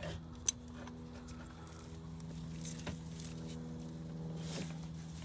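Faint tool handling on a serpentine belt tensioner: one sharp click about half a second in and a few small knocks, over a steady low hum.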